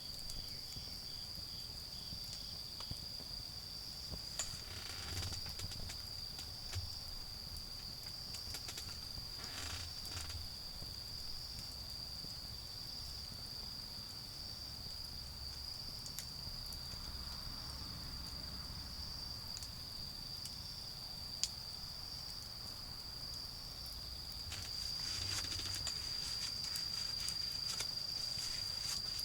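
Autumn insects, crickets, trilling steadily at a high pitch, with the scattered crackles and pops of a small wood fire. A faint low rumble sits underneath, and the crackling grows a little busier in the last few seconds.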